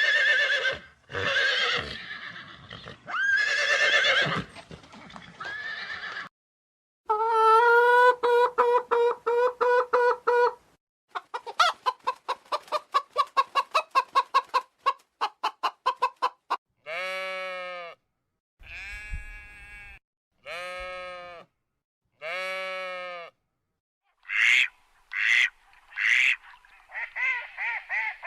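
A string of different animal calls, one short recording after another with brief gaps: drawn-out cries, a pulsing call, a fast chattering run, four evenly spaced pitched calls, then short calls near the end.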